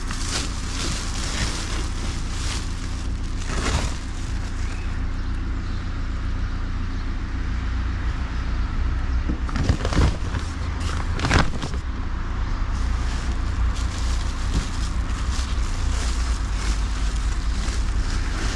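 Clothes being handled and sorted: fabric rustling and a few knocks, the loudest about four, ten and eleven seconds in, over a steady low rumble.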